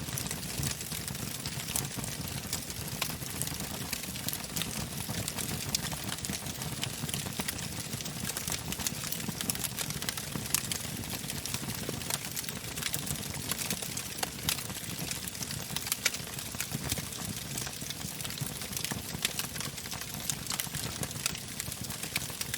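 Wood fire burning in a fireplace: a steady hiss with frequent sharp crackles and pops from the logs.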